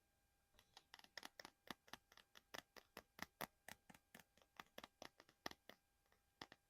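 Quick, light tapping on a small object, about five taps a second.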